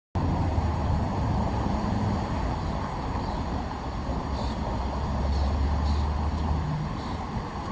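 Deep, steady rumbling roar of a rocket launch, starting abruptly and cutting off suddenly near the end.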